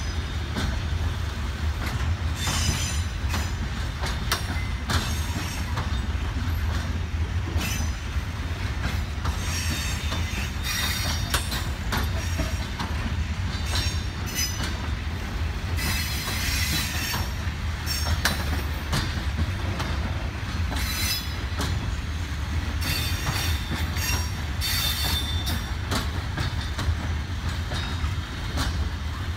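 A freight train's wagons rolling steadily past over a low, constant rumble, the wheels clacking over the rail joints, with repeated high-pitched wheel squeals that come and go.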